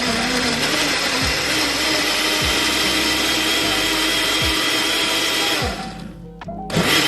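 Electric mixer grinder (mixie) running at full speed, grinding tomatoes, green chillies, salt and a little water into a chutney. It runs steadily, stops about five and a half seconds in for roughly a second, then starts again.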